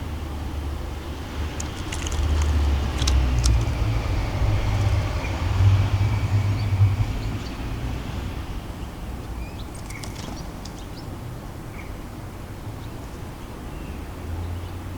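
Low rumble of road traffic, swelling for a few seconds and then easing off, with a few short, high bird chirps and ticks from the garden.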